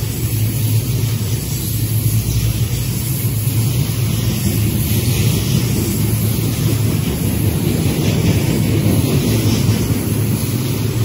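Freight train of tank cars, a covered hopper and a gondola rolling past at close range: a steady rumble of steel wheels on the rails.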